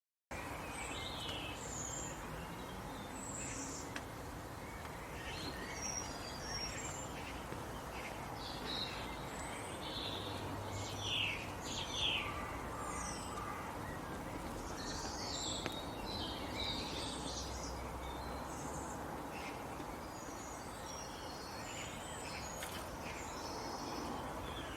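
Birds chirping and calling over a steady background hiss: many short chirps and whistles, a little louder around the middle.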